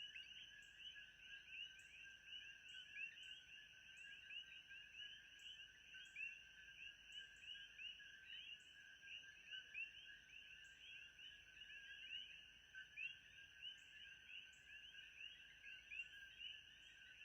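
Faint nature ambience: a dense chorus of many short, overlapping chirps, with a thin steady high-pitched drone beneath.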